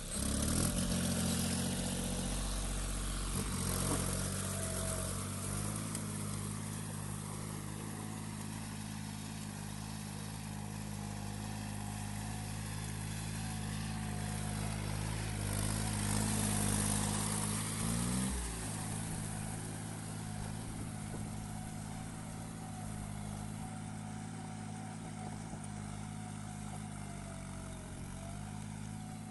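John Deere 5042D tractor's three-cylinder diesel engine running steadily, with a brief change in engine speed about eighteen seconds in.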